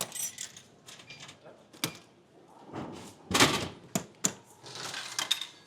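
Handling noises at a drinks vending machine: scattered sharp clicks and knocks, with one heavier thunk about three and a half seconds in.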